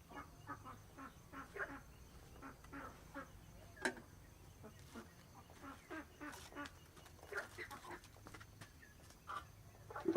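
Farm poultry, likely ducks, calling faintly: many short calls in quick, irregular succession, with a sharp knock just before four seconds in.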